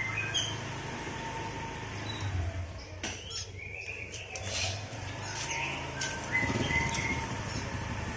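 Small cage birds chirping in short, high, scattered chirps, over a steady low hum.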